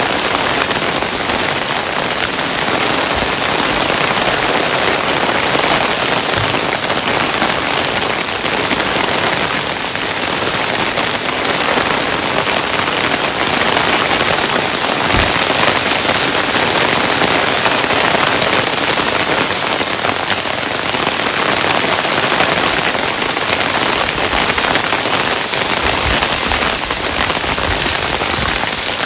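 Hailstones falling steadily, a dense even patter of countless small hits, with a few scattered heavier knocks.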